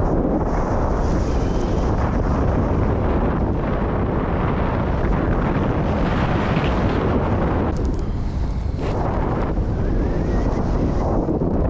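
Wind rushing over and buffeting the microphone in flight under a paraglider, loud and steady, easing briefly about eight seconds in.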